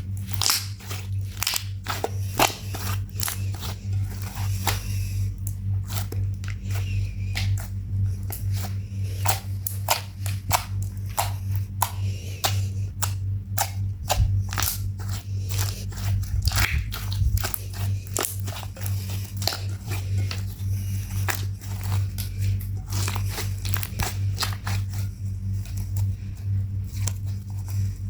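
Slime being squished and kneaded by hand, a dense run of small wet clicks and pops, over a steady low hum.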